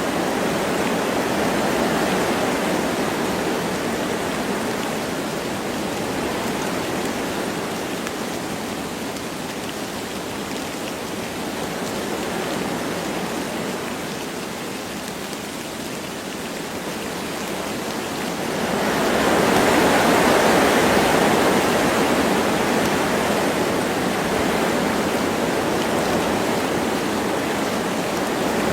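Wind rushing through forest trees with light rain, a steady hiss that swells into a stronger gust about two-thirds of the way through and then eases a little.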